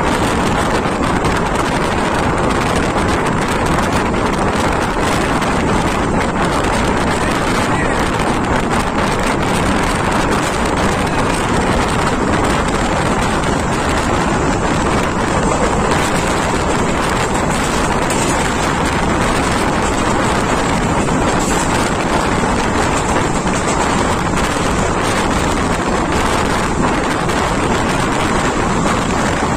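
Passenger train running at speed, heard from on board: a steady, loud noise of the coach rolling along the track, with wind buffeting the microphone.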